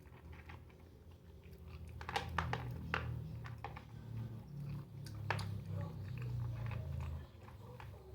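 Small dog eating, chewing its food, with a few sharp clicks, mostly between about two and seven seconds in.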